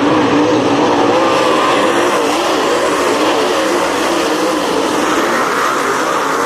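Race car engines running hard on the track, several of them at once, their pitch rising and falling in waves as they lift and get back on the throttle.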